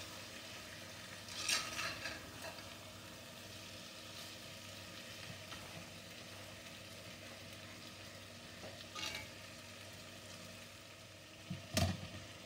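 Tuna roast sizzling gently in a cast-iron kadai as a spatula stirs it, scraping against the pan a couple of times. A knock near the end is the loudest sound.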